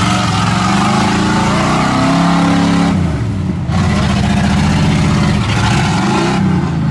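Lifted Chevy 4x4 mud truck's engine revving hard under load in deep mud, its pitch climbing and dropping several times as the driver works the throttle.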